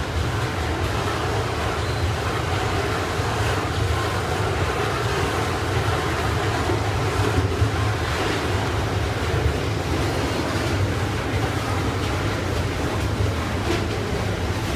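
Long freight train of steel-coil flat wagons rolling past on the rails: a steady low rumble with a hiss of wheel and rail noise.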